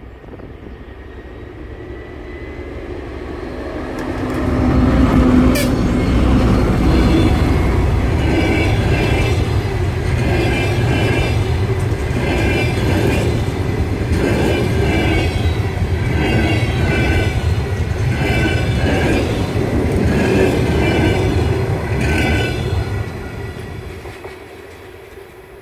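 TEP70 diesel locomotive's 16-cylinder engine rumbling as it pulls a passenger train past. The coaches then roll by with a regular clickety-clack of wheels over rail joints, about once a second. The sound swells over the first few seconds and fades near the end as the train moves away.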